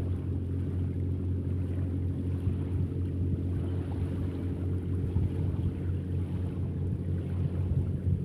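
Steady low engine rumble with no change in pitch.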